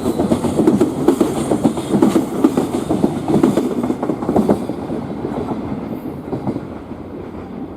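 Freight train of container flatcars rolling past, wheels clattering rapidly over the rail joints, then fading away about halfway through as the end of the train draws off.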